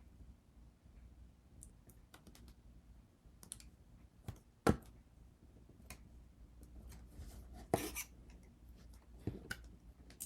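Scattered small clicks, taps and scrapes of pieces and tools being handled on a work surface, with one sharper knock about halfway through and a brief scrape a little later.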